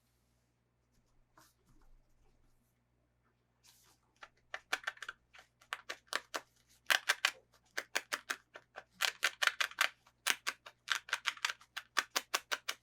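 Quick runs of crisp clicks or snips from toy packaging being worked by hand, several a second. They start about four seconds in after near silence and come in clusters.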